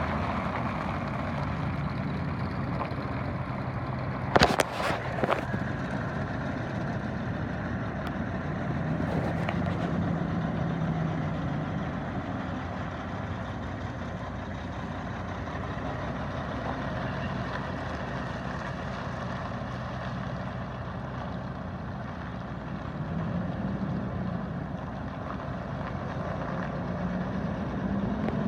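2006 Freightliner Columbia truck tractor's diesel engine running at a steady idle, its pitch rising slightly a couple of times. A few sharp knocks about four to five seconds in.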